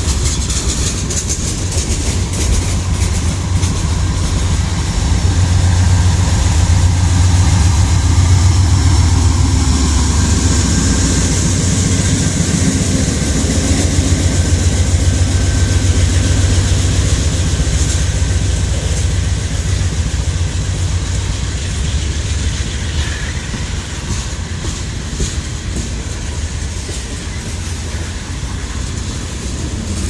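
Freight train cars rolling past close by: a steady loud rumble with rapid clickety-clack of wheels over the rails, loudest in the middle and easing slightly near the end.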